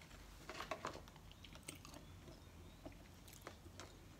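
Faint close-up sounds of a person chewing fast food, with small scattered wet clicks and crackles.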